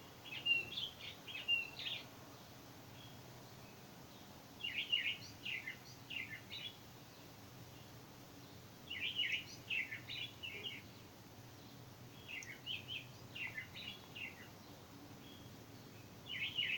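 A songbird singing five short phrases of quick chirping notes, each about two seconds long and roughly four seconds apart, over a faint steady low hum.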